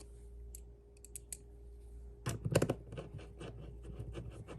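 Small screws being driven to fasten a plastic module onto a tablet enclosure: scattered light clicks and taps of the screwdriver and parts, with a louder cluster of clicks about halfway through and a quick run of small clicks after it, over a faint steady hum.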